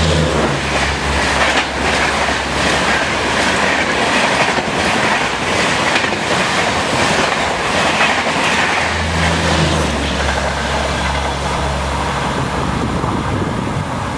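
Express passenger coaches passing at high speed, with wheels clattering over the rail joints in a steady run of clicks over the rush of the train. A low drone sounds at the start and again around nine seconds in.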